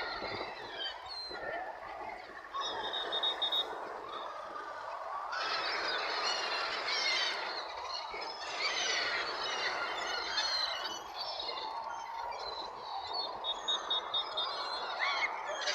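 A crowd of young birds cheeping and squealing together in a continuous chorus of begging calls while being fed.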